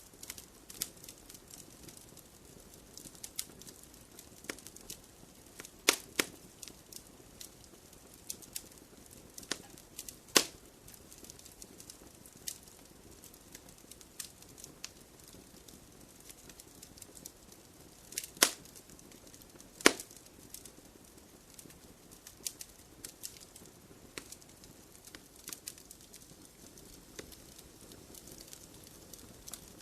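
Wood fire crackling: a steady low hiss with scattered sharp snaps, and several louder pops about 6, 10, 18 and 20 seconds in.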